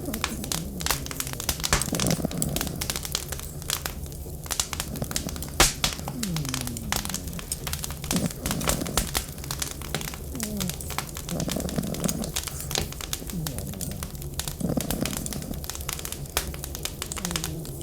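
Wood fire crackling and popping with many sharp snaps, over a steady low rumble and wind with short falling whistles.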